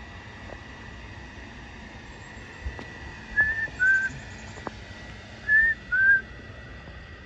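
A bird singing two short whistled phrases, each two clear notes with the second a little lower than the first. A faint steady high tone runs underneath.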